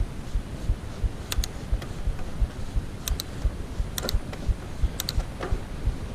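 Mountain bike being ridden along a trail: a low rumble of wind on the microphone with dull thumps about three a second, and sharp clicks in quick pairs, four times.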